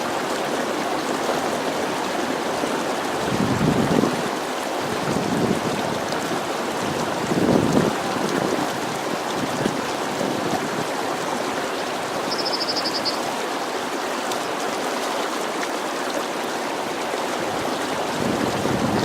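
A stream running steadily, its flowing water rising in two louder surges about four and eight seconds in. A brief high trill sounds once in the middle.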